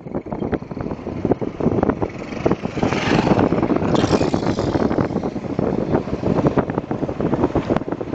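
Wind buffeting the microphone: a loud, uneven rumble, with stronger gusts about three and four seconds in.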